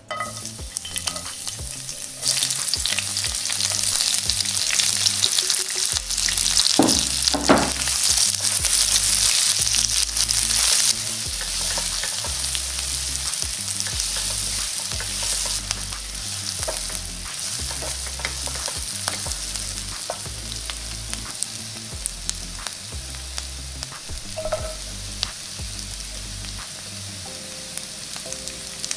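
Sliced shallots, garlic and onion sizzling in hot oil in a frying pan and being stirred; by the end the pan also holds julienned carrots. The sizzle jumps up about two seconds in, is loudest in the middle and eases off after about eleven seconds.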